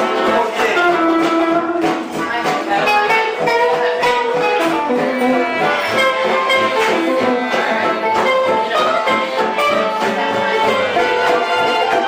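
A live band playing gypsy-style music: held melody notes over a steady rhythmic accompaniment.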